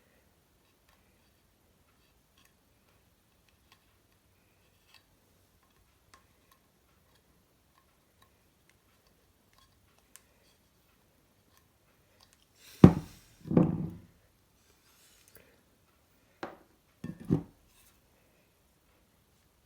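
Faint clicks and light tool scraping against a ceramic bowl as repair filler is worked on. There are a handful of louder knocks and bumps about two-thirds of the way through.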